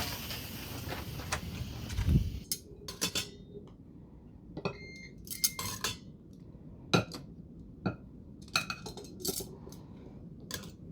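Electric pressure cooker's steam release valve hissing for a couple of seconds as the remaining pressure is vented manually, ending with a dull knock. Then a run of sharp clinks and taps of utensils and dishes as the eggs are taken out.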